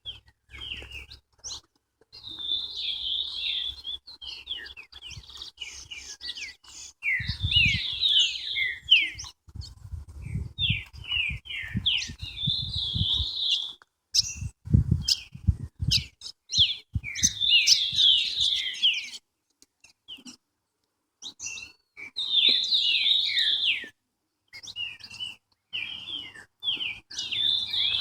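Songbirds singing in repeated phrases of quick, high chirping notes, each phrase a few seconds long with short pauses between.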